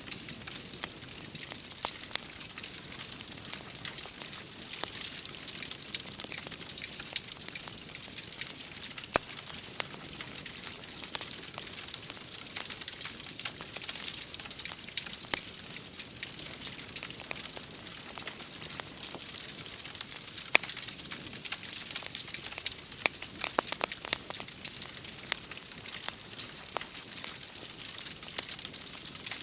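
Wood fire crackling, with frequent sharp pops and snaps scattered over a steady hiss of rain.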